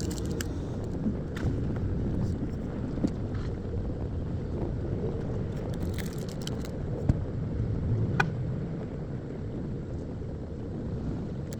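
Steady low rumble of nearby road traffic, with a few faint, short clicks and rustles scattered through it.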